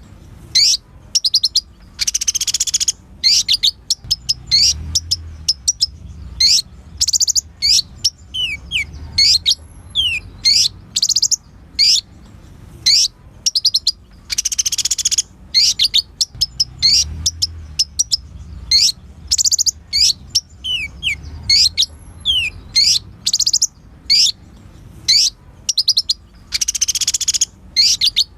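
Kolibri ninja sunbird singing a fast run of high, sharp chirps and quick sweeping notes, broken about every twelve seconds by a longer buzzy trill, over a low hum.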